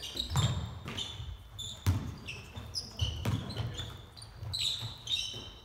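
Basketball bouncing on an indoor court several times at an uneven pace, mixed with many short, high sneaker squeaks from players moving on the floor.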